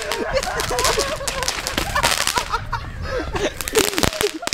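Fireworks crackling and popping in quick, uneven succession, with people yelling and whooping over them. The pops thin out near the end.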